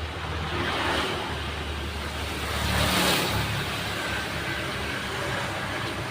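Road traffic going by: a vehicle engine swelling as it passes, twice, over a low steady hum.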